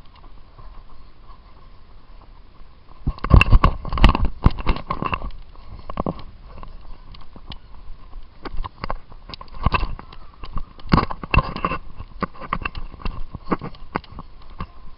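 Footfalls of someone running, with thumps and rubbing from a handheld camera jostled in the runner's hand or pocket; the knocks are irregular and loudest about three to five seconds in and again around ten to twelve seconds in.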